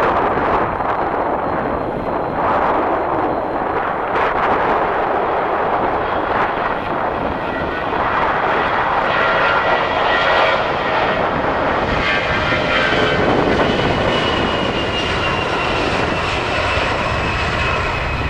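Jet airliner's engines, a steady broad rush with a faint high whine that comes in about halfway through.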